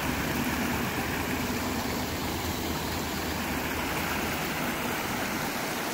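Steady rush of flowing river water, an even unbroken sound with no distinct events.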